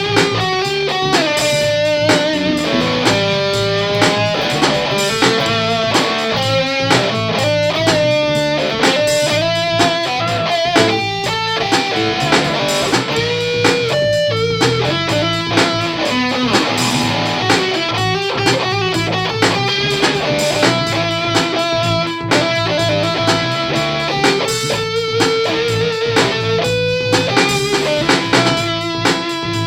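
Jazzmaster electric guitar played through a range booster and Mooer Cruncher distortion pedal into a Sovtek 50 amp and Egnater cabinet: a distorted tone playing single-note lines with long held notes.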